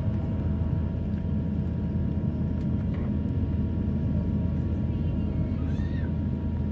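Steady low rumble and hum of an Airbus A350-1000 cabin at the gate, with a brief faint rising-and-falling squeal near the end.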